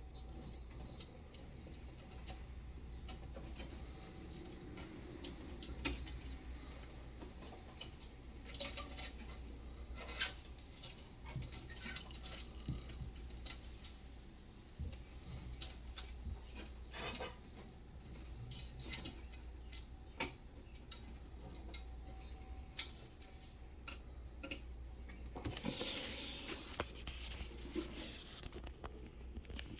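Faint scattered small taps and clicks over a low steady hum, with a longer rustling burst about 26 seconds in.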